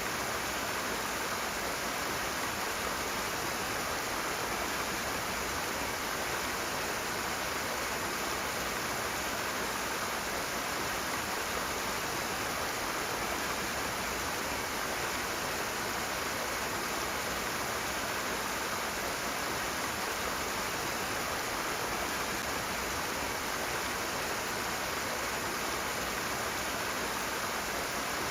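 Rushing water: a steady, even rush with no breaks or changes.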